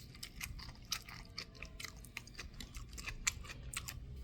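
Faint, irregular crisp clicks and crunches of someone chewing a mouthful of sandwich.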